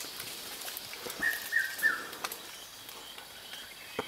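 A bird calling: a quick group of three short, slightly falling whistled notes about a second in, over a steady high hiss of forest background. A sharp click near the end.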